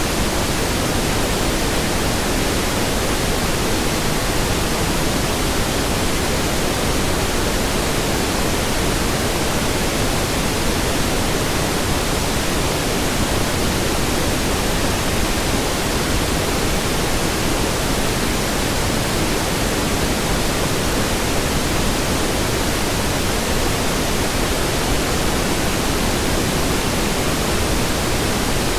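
Steady pink noise: an even, unchanging hiss weighted toward the low end, with no tones or breaks.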